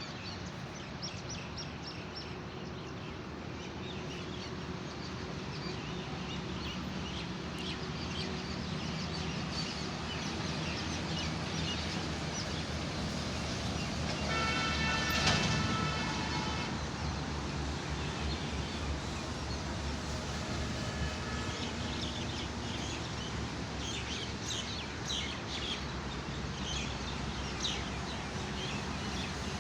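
Birds chirping over a steady hum of background traffic. About halfway through, a loud pitched tone sounds for about two seconds, and a fainter one follows a few seconds later.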